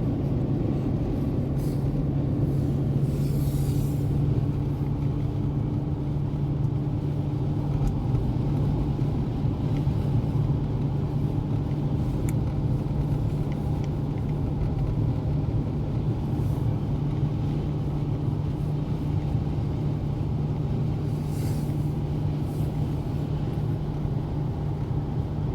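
Steady low drone inside a moving car's cabin: engine hum and tyre and road noise at a constant speed.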